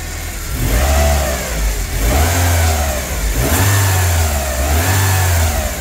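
BMW M42B18 1.8-litre four-cylinder engine, still cold, revved in about four throttle blips, its pitch rising and falling each time. There is no chain rattle on the revs: the newly fitted timing chain tensioner now keeps the chain tight.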